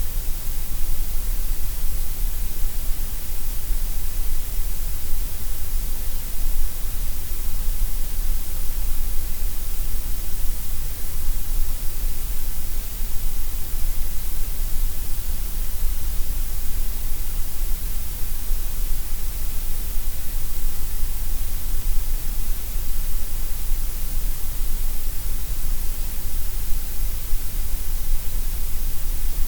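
Gray noise: a steady, unchanging synthetic hiss with a deep rumble underneath, quieter through the middle range than at the low and high ends.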